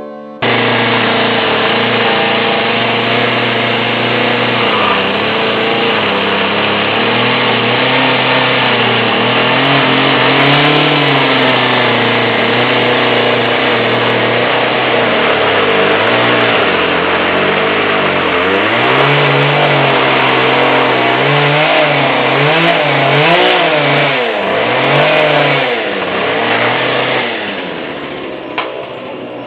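Chainsaw running and cutting wood, its engine pitch repeatedly dipping and recovering as it loads up in the cut and revs free. It starts abruptly about half a second in and dies away near the end.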